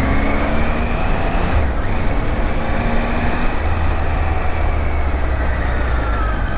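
Triumph Tiger 800's three-cylinder engine running under way, heard from the moving motorcycle together with wind and road noise; the engine note drifts gently up and down over a steady low rumble.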